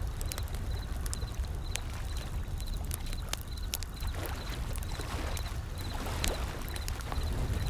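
Wood fire crackling with frequent sharp pops, over a steady low rumble of ocean waves that swell a little in the middle. A faint high chirp repeats every half second or so.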